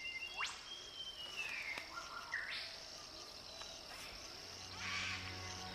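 Creekside bush ambience: a steady high insect chirring, with birds calling in whistled notes that slide down and then step up in the first few seconds. Soft sustained music begins near the end.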